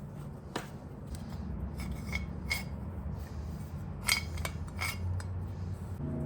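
Scattered light metallic clinks and taps, several ringing briefly, as metal parts and hand tools are handled. A low steady hum lies underneath.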